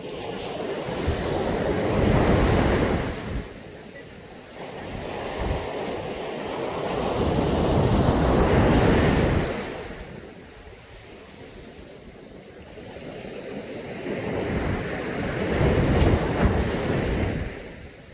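Sea waves breaking on a beach, three in turn: each swells up over a few seconds and then falls away quickly, about six to seven seconds apart.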